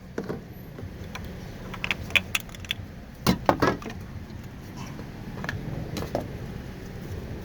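A 2013 Dodge Grand Caravan's 3.6-litre V6 running for the first time after a head gasket replacement, with no coolant in it yet: a steady low hum, broken by several sharp clicks and rattles about two and three and a half seconds in.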